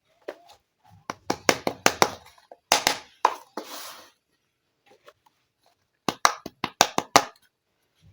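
Small plastic toy kitchen pieces being handled: quick runs of sharp clicks and taps in three groups, with a short rustle after the second group.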